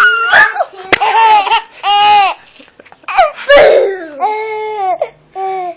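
Baby laughing in a run of high-pitched laughs, about six bursts in a few seconds.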